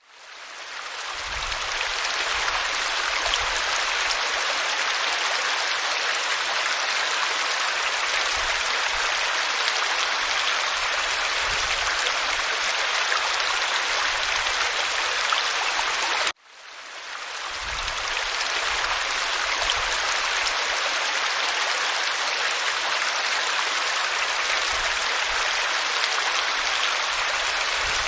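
Water falling over rock in a waterfall: a steady rushing hiss with no pitch. It cuts out and swells back up over about two seconds, once at the start and again about sixteen seconds in.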